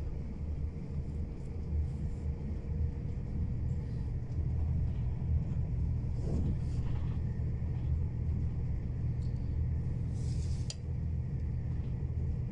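Steady low rumble of a passenger train running at speed, heard inside the carriage: wheels on the track and running gear. A brief rattle comes about six seconds in, and a short sharp click near ten and a half seconds.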